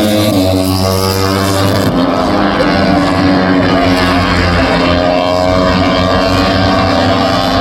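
MotoGP racing motorcycles' four-cylinder engines running at high revs, their note gliding in pitch. The sound changes abruptly about two seconds in.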